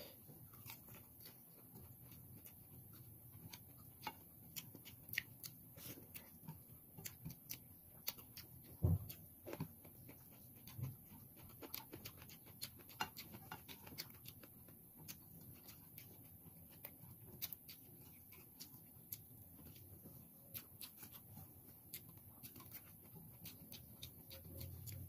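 Close-up eating sounds: chewing and lip smacking on a raw vegetable salad eaten by hand, heard as a run of small irregular clicks and crunches. A single dull thump comes about nine seconds in.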